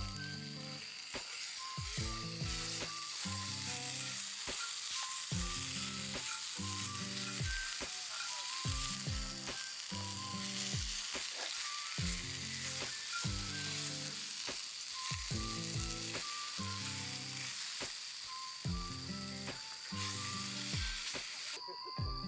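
Food sizzling as it fries in a pan, a dense steady hiss that cuts off abruptly near the end, over background music with a steady drum beat and bass line.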